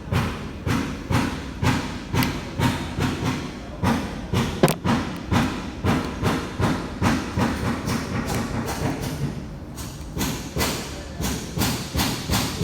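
Repeated sharp knocks in a steady rhythm, about two to three a second, with a short lull near the end.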